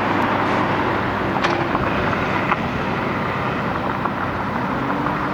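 Concrete truck's diesel engine running steadily, with a low even hum over wind and site noise.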